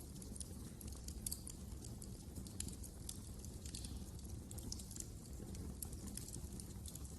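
Wood fire crackling in a fireplace: frequent small, irregular pops and snaps over a low, steady rumble of flame.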